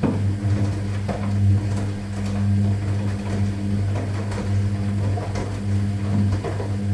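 Washing machine running: a steady low motor hum that dips briefly a few times, with scattered light knocks and clicks from the drum.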